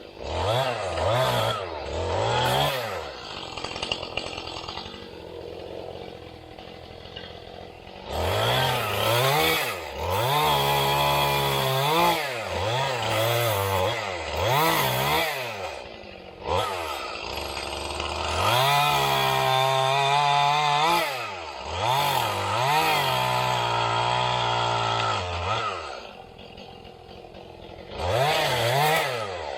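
Chainsaw revved up and down again and again, held at high speed for a second or two at a time, as when cutting wood.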